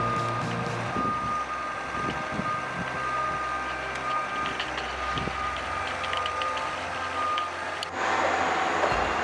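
A heavy machine's reversing alarm beeping steadily over its running diesel engine. About eight seconds in, the sound changes abruptly to a louder, noisier machine sound.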